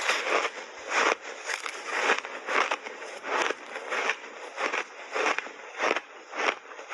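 Refrozen block ice with mixed berries being chewed close to the microphone: a steady run of loud, crisp crunches, about two a second.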